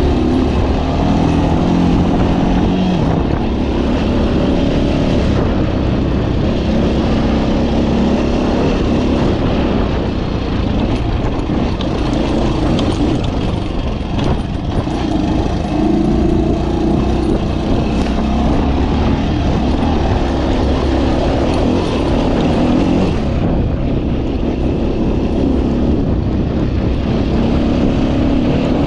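Suzuki SP370's single-cylinder four-stroke engine running under way on a dirt track. Its pitch rises and falls as the throttle is worked, over steady wind noise.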